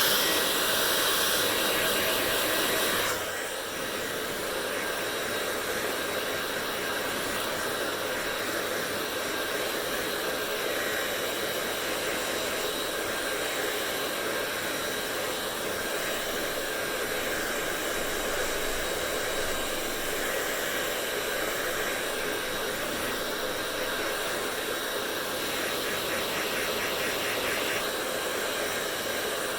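Hair dryer running steadily: a rush of blown air with a faint steady whine; it drops a little in level about three seconds in and then holds even.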